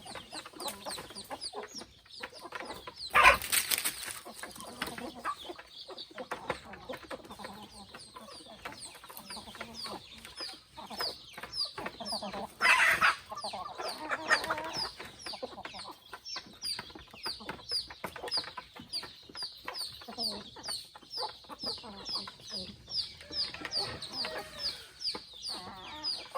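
Free-range chickens clucking and calling, with a rapid run of short high calls and two louder calls about three seconds and thirteen seconds in.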